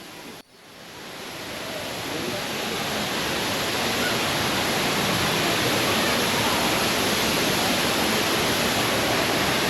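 Waterfall rushing steadily. It fades in over the first few seconds after a brief dropout about half a second in.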